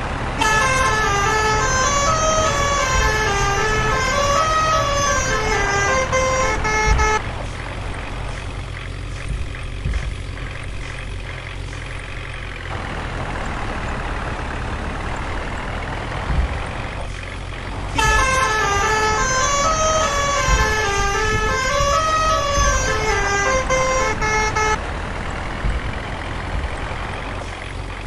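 Tractor engine running steadily while a melodic musical horn plays a repeating stepped tune twice, each time for about seven seconds.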